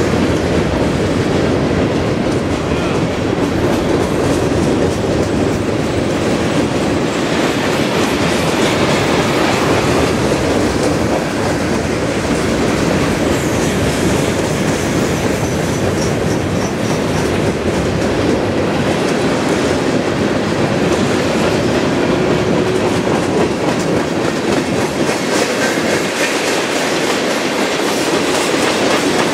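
Freight train of covered hopper cars rolling across a steel trestle: a steady, continuous rumble with fine rapid clicking of the wheels.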